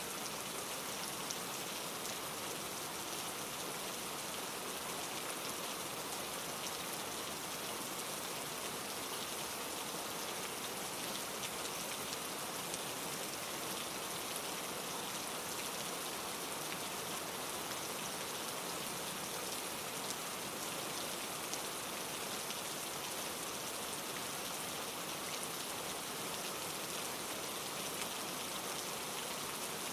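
Steady rain falling on leaves: an even hiss with many small drop ticks, unchanging throughout.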